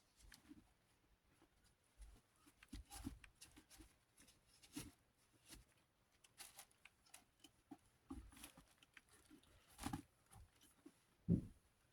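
Faint scattered handling noises of fan parts being cleaned by hand: light rubbing, scraping and small taps, with one louder thump near the end.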